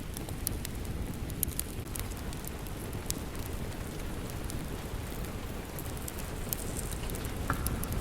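Steady rain mixed with a crackling wood fire. Sharp pops and snaps come every second or so over the even hiss of the rain.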